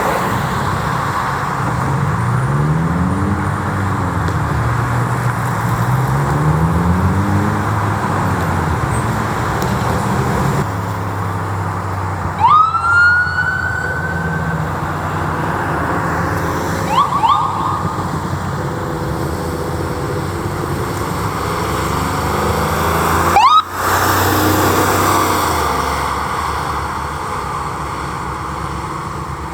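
Emergency vehicle siren wailing: a low tone sweeps slowly up and down, over a steady higher siren sound. Short, sharp rising siren whoops break in about halfway through and again near the end.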